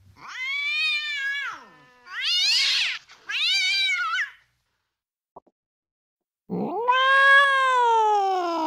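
Recorded angry cat yowls: three drawn-out yowls of about a second each, the second sliding up in pitch. After a two-second gap a longer, lower yowl begins near the end and falls slowly.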